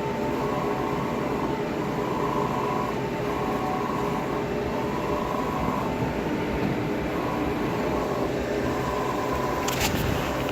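A machine running with a steady hum and rushing noise. A higher whine cuts in and out roughly once a second. Near the end there is a short click or rattle.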